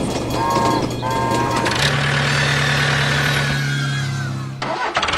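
A motor running with a steady pitched hum that cuts off suddenly near the end, after a few short higher tones at the start.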